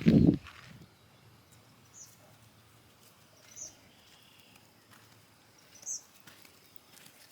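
A brief low thump right at the start, then quiet outdoor ambience with three short, high bird chirps a couple of seconds apart.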